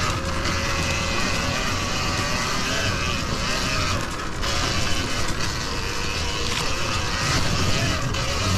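Sur-Ron Ultra Bee electric dirt bike riding: a steady motor and drivetrain whine over tyre noise and wind rush on the microphone, easing briefly about four seconds in.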